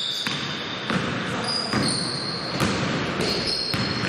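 A basketball being dribbled on a gym floor, bouncing about every two-thirds of a second, with sneakers squeaking on the court and the echo of a large hall.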